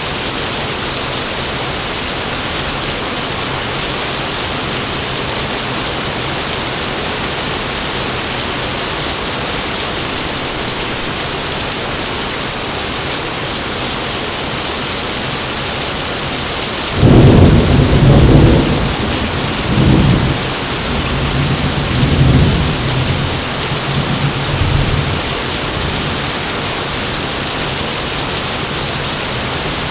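Heavy rain falling steadily. A little past halfway a sudden, loud thunderclap breaks in and rumbles on in several swells for about eight seconds before fading back under the rain.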